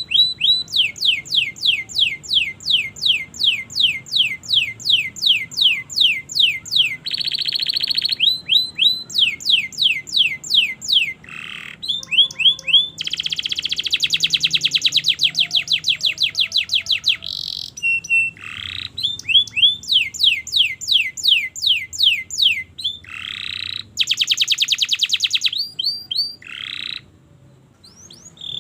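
Domestic canary singing a long, continuous song of rapid repeated trills: runs of downward-sweeping notes at several per second, alternating with fast buzzing rolls and short whistled notes, with a brief pause near the end.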